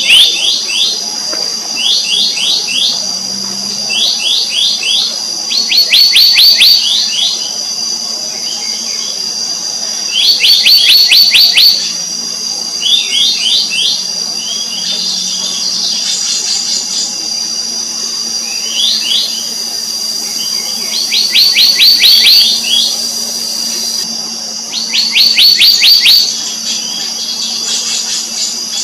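Black-naped monarch calling: quick runs of short whistled notes, each sliding downward, about eight a second, in bursts of up to a second and a half repeated every few seconds. A steady high-pitched drone runs underneath.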